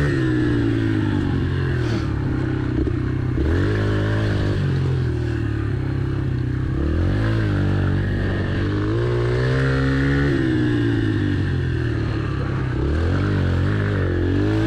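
Yamaha TT-R pit bike's four-stroke single-cylinder engine being ridden, its pitch falling off and rising again several times as the throttle is rolled off and back on.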